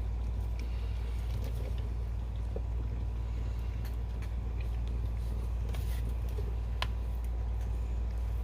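A steady low hum, with faint scattered wet clicks and squelches from a mother cat licking her newborn kitten clean; one sharper click about seven seconds in.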